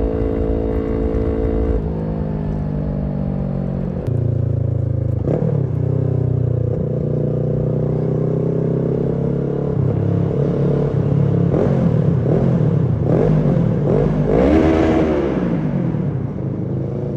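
Kawasaki Z650's parallel-twin engine running through a Roadsitalia aftermarket exhaust. The note holds steady, drops suddenly about four seconds in, and then rises and falls repeatedly in pitch with the revs toward the end.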